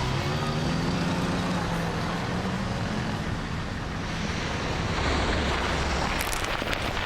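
Road traffic: cars driving past with engine hum and tyre noise, swelling as a vehicle passes about five seconds in. A brief sharp crackle comes near the end.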